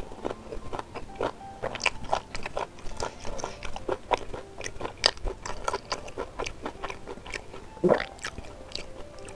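Close-up mouth sounds of a person chewing spicy beef rib meat: a quick, irregular run of wet smacks and clicks, with one louder smack near the end.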